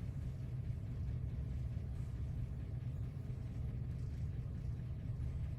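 Steady low hum with no clear start, stop or rhythm.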